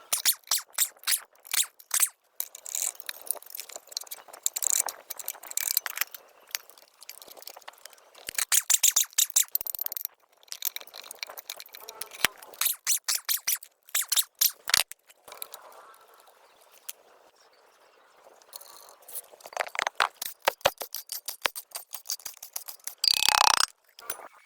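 Bursts of rapid scraping and rattling strokes, with short quiet gaps between runs, as in hand-tool work.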